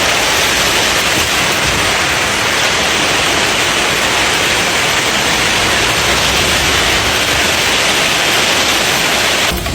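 A heavy hailstorm downpour: a dense, steady hiss of falling hail and rain that cuts off suddenly near the end.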